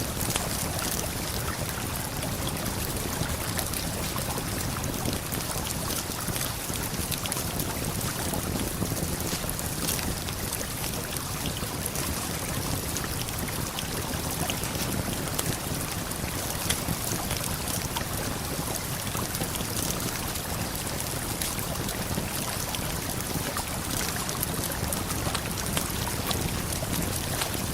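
Steady rush of a waterfall and flowing river, with scattered sharp crackles and pops from a wood campfire.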